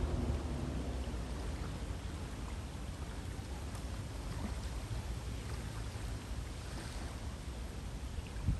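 River water flowing steadily, a constant rushing with faint scattered trickles and splashes.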